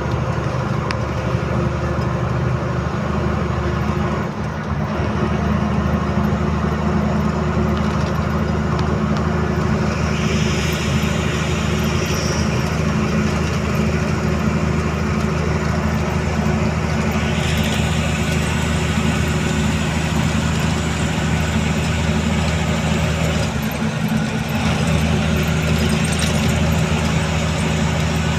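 Truck engine running steadily, with a brief drop in level about four seconds in and again near the end. A hiss joins in for several seconds midway.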